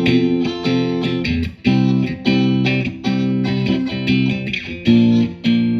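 Electric guitar, a Fender Stratocaster on the in-between middle-and-bridge pickup setting, playing a rhythmic riff of short repeated chord stabs.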